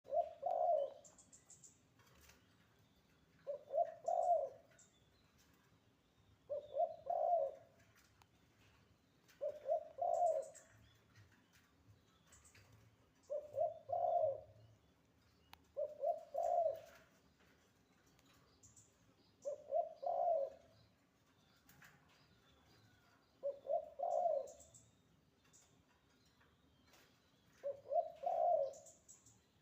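Spotted dove (tekukur) cooing repeatedly: nine short phrases of a few quick low coos, one about every three to four seconds. Faint high chirps of a small bird are heard between the phrases.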